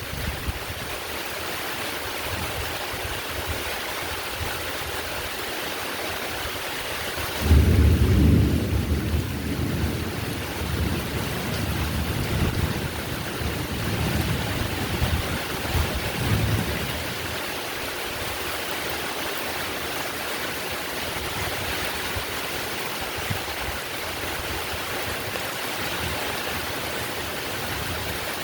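Heavy rain falling steadily. A few seconds in, a loud low thunder rumble breaks in and rolls on in waves for about ten seconds before fading back under the rain.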